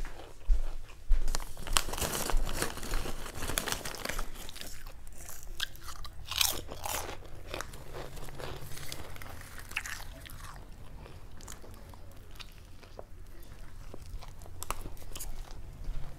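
Close-miked eating: chewing with crunchy bites, mixed with the crinkle of a paper sandwich wrapper being handled. The sounds come thickest in the first ten seconds and thin out after.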